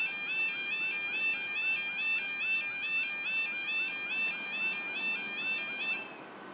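Level crossing audible warning alarm sounding a warbling electronic tone that repeats about three times a second. It cuts off suddenly about six seconds in, leaving faint background noise.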